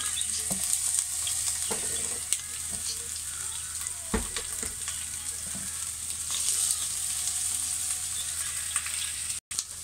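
Sliced onions sizzling in hot oil in a saucepan, a steady frying hiss with a few light clicks and one sharper knock about four seconds in. It breaks off for a moment near the end.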